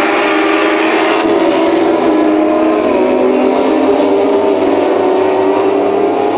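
Several MotoGP racing motorcycles' four-stroke engines running loud at high revs together, their pitch stepping down a few times as they shift gear.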